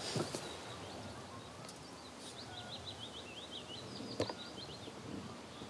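A small bird chirping faintly in a quick run of short high notes, starting about two and a half seconds in and stopping near the end, over a steady outdoor background hiss. A single sharp click comes about four seconds in.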